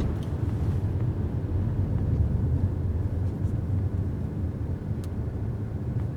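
Steady low rumble of road and drivetrain noise inside the cabin of a 2019 Mercedes A-Class driving on a snowy road.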